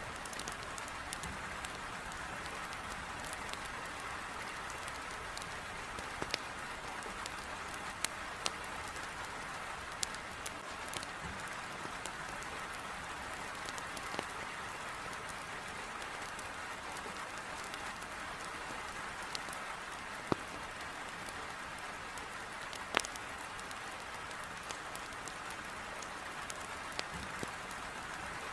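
Heavy rain beating on a window, a steady even hiss, with scattered sharp pops of wood crackling in a fireplace; the loudest pop comes about 23 seconds in.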